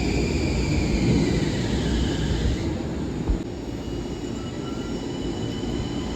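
Long Island Rail Road commuter train running past with a steady rumble and high whining tones, which drop away about halfway through. A single knock a little over three seconds in.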